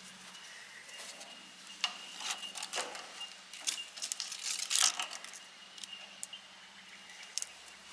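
Scattered light clicks, knocks and rattles, as of things being handled, over a faint steady high tone and a low hum.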